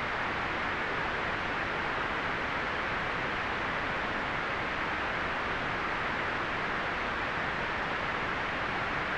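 Continuous white noise: a steady, even hiss with no change in level or pitch, strongest in the upper-middle range and softer in the highest treble.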